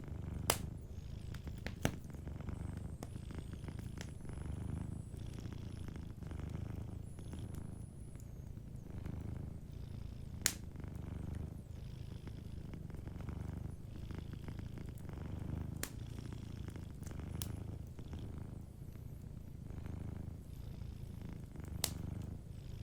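A domestic cat purring continuously in a low rumble that swells and fades in slow waves. About six sharp, isolated pops from a crackling wood fire are heard over it.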